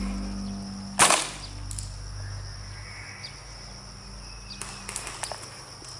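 A single sharp crack of an airsoft gun shot about a second in, followed by a few fainter clicks and pops.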